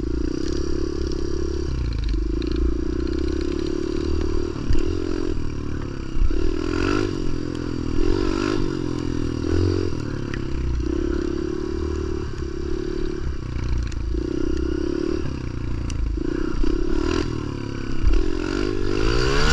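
Pit bike engine revving up and falling back again and again as the throttle is opened and closed for wheelie attempts.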